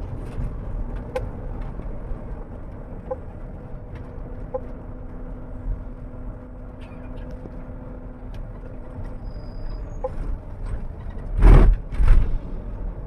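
A moving bus with a steady low rumble of engine and road noise and a few short tonal blips. About eleven and a half seconds in come two loud, brief noisy bursts close together.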